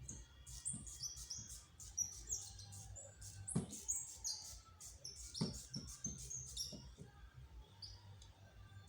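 Small birds chirping in many short, high calls, with a few soft knocks, the loudest about three and a half and five and a half seconds in.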